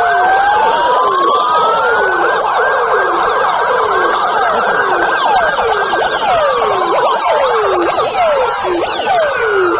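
Several police car sirens sounding at once: a slow wail rising and falling over a couple of seconds, mixed with quick sweeps that fall in pitch, repeating about twice a second.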